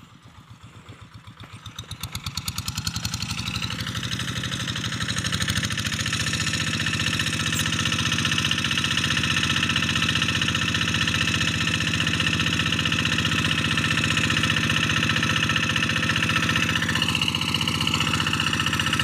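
Single-cylinder Kubota diesel engine of a Quick G1000 Boxer hand tractor, chugging with a slow, even pulse as it pulls a plough that forms soil ridges. It grows louder over the first five seconds or so, then runs steadily under load.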